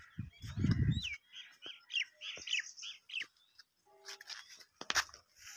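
A bird calling a quick series of short chirping notes, about seven in two seconds, after a low rumble in the first second. A sharp click near the end.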